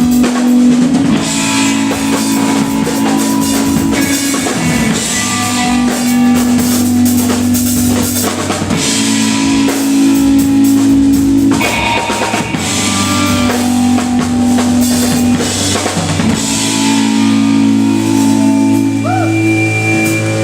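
Live rock band playing: drum kit under guitar holding long chords that change every few seconds.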